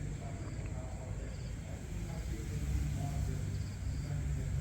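Insects chirping in short, repeated high trills over a steady low rumble.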